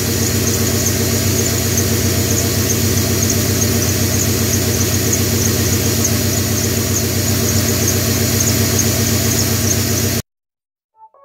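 Ford 4.6-litre V8 of an SN95 Mustang GT idling steadily, recorded close to the engine block. It cuts off abruptly about ten seconds in.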